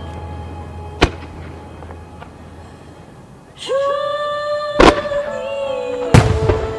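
Firework shells bursting in three sharp bangs, about one, five and six seconds in, over a music soundtrack that comes back in with a long held note partway through.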